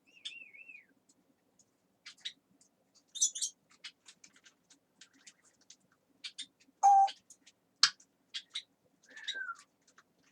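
A pet parrot's vocalising: a short wavy whistle at the start, scattered clicks and chirps, a loud brief call about seven seconds in, and a falling whistle near the end.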